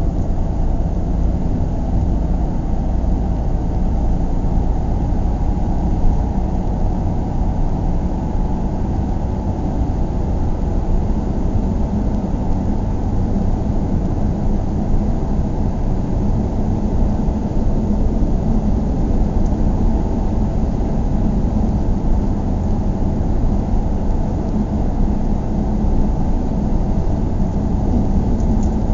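A vehicle's steady low rumble, even throughout with no rises or breaks.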